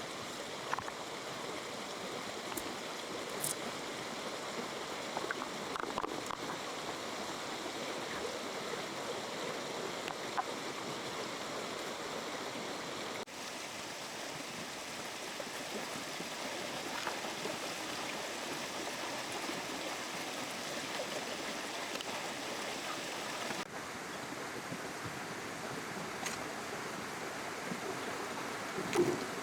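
River water running steadily over stones, an even rushing wash with a few small clicks and a louder knock near the end.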